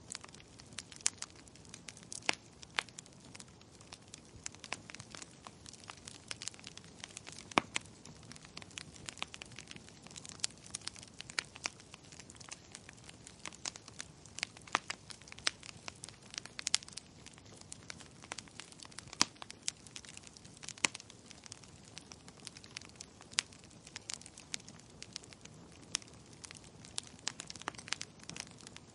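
Wood fire crackling in a fireplace: irregular sharp pops and snaps, several each second, over a faint steady hiss.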